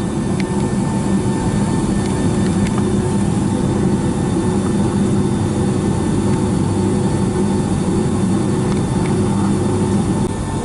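Cabin noise inside a Boeing 757-200 on the ground before takeoff: the jet engines at idle give a steady drone with a constant low hum and a few steady higher tones, unchanging throughout.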